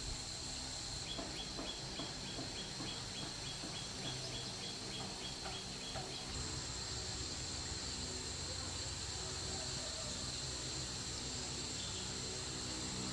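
Outdoor rural ambience: a steady high-pitched insect drone, with a quick run of short chirps, about three a second, through the first half.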